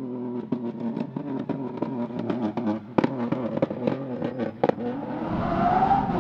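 Rally car engine running with frequent sharp pops and cracks, one loud crack about three seconds in, then revving up hard with a rising note and tyre and road noise near the end.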